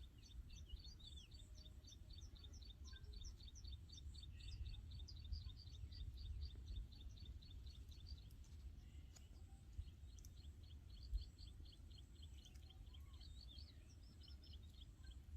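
A small bird giving rapid, evenly repeated high chirps, about five a second, in two long runs with a short break between, over a faint low rumble.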